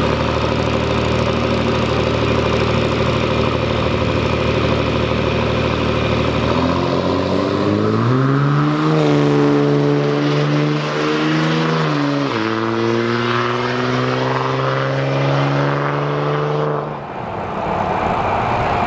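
Diesel truck engine running steadily, then climbing in pitch under throttle about six seconds in. The pitch drops sharply once about twelve seconds in, climbs again, and falls away near the end.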